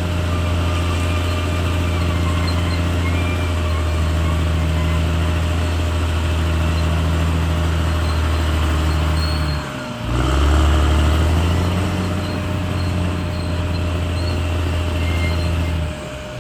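CAT D6R XL bulldozer's diesel engine running steadily at work. The sound dips briefly about ten seconds in and again near the end, then picks back up.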